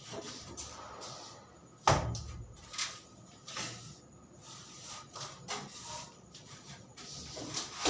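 Irregular knocks, clicks and scrapes of manual construction work, with one loud, heavy thump about two seconds in.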